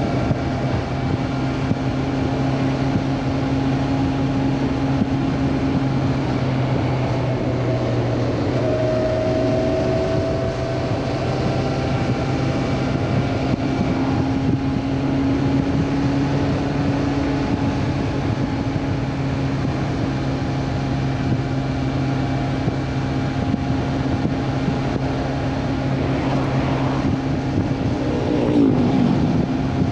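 Honda CB400 Super Four's inline-four engine running at a steady speed, its pitch dropping near the end as it slows down.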